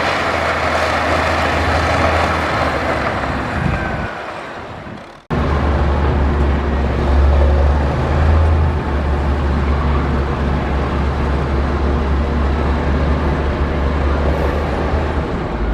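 Heavy diesel earthmoving machinery running with a steady, loud engine drone. The sound fades about four seconds in, then cuts abruptly back to a deeper, louder engine drone that holds steady.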